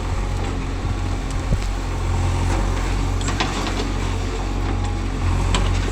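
Heavy diesel engine running steadily at low revs, with a few light knocks from the machinery.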